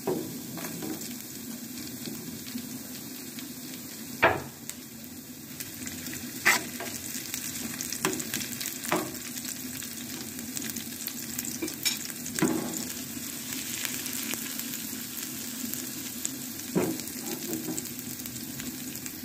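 Green chillies and julienned ginger frying in hot oil in a small aluminium frying pan, stirred with a steel spoon: the tempering (tadka) for chana. A steady sizzle with sharp clicks now and then.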